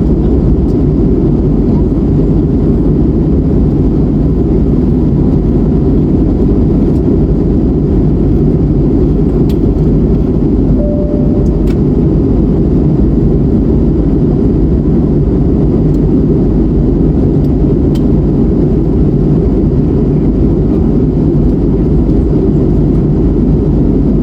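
Steady low roar of an Airbus A321neo's engines and airflow heard inside the passenger cabin in flight, with a brief faint tone about eleven seconds in.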